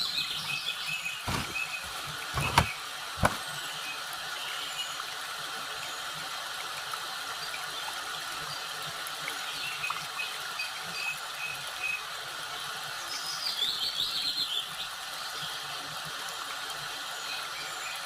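Songbird trills falling in pitch, heard just at the start and again about two-thirds of the way through, over a steady rushing background like running stream water. Three sharp knocks come between about one and three seconds in, the second the loudest.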